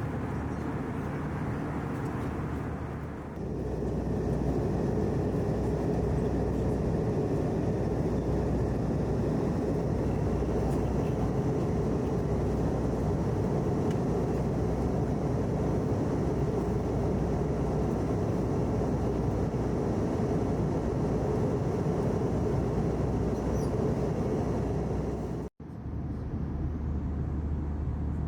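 Steady airliner cabin noise from an Airbus A321 (engine and airflow), with a change in tone about three seconds in and a brief dropout near the end where the footage is cut.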